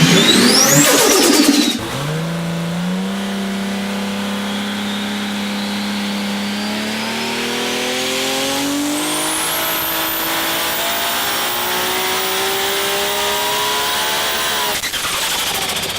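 A turbocharged car engine revving hard in quick rises and falls for about two seconds. Then a steady engine note climbs slowly in pitch as the car pulls under load, with a thin high whine rising above it partway through.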